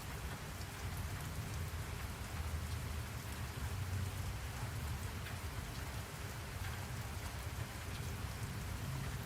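Steady rainfall: an even hiss of rain with scattered drop ticks over a constant low rumble.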